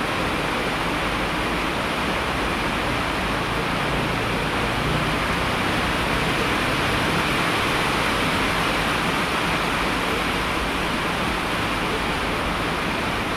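Steady rain: an even, unbroken rush of falling water that holds a constant level throughout.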